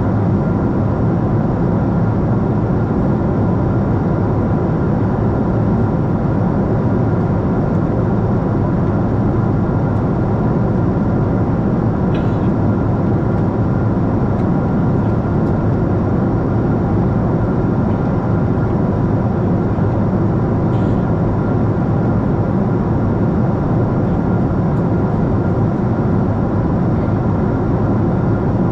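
Steady engine and airflow noise of a Boeing 747-8 in flight, a deep even rumble with faint steady tones above it and no change in level.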